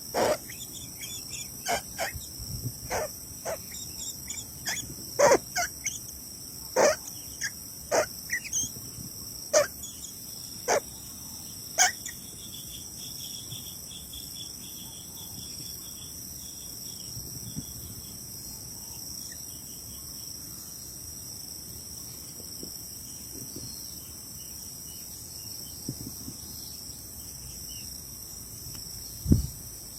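Steady high-pitched insect chorus, several pitches held without a break. Over it, during the first dozen seconds, a series of sharp knocks and clicks, about one a second, which stop after that.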